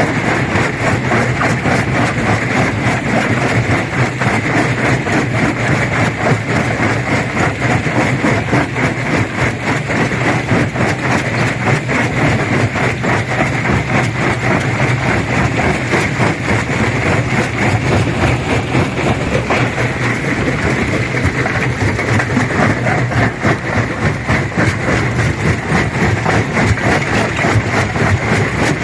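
Stone crusher machine running and crushing rock: a steady low engine drone under a continuous dense clatter of breaking and tumbling stone.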